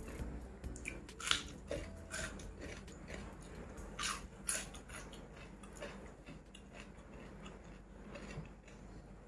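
A person chewing and biting food close to the microphone. There are a few sharp crunches and wet mouth clicks, the loudest a little over a second in and around four seconds in.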